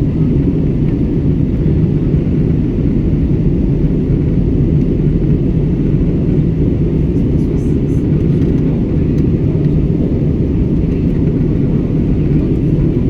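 Steady, loud drone of an airliner cabin in flight: jet engine and airflow noise, strongest in the low range and unchanging throughout.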